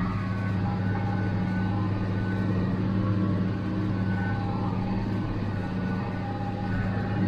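International Harvester 886 tractor's diesel engine running steadily under load, pulling a square baler through a heavy windrow; a constant low drone.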